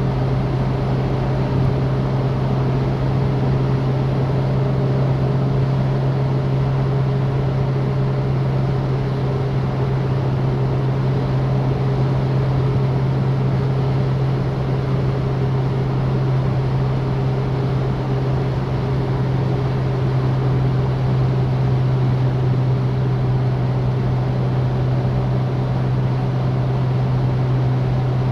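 Citroen DS's four-cylinder engine droning steadily while the car drives at a constant speed, mixed with wind and road noise.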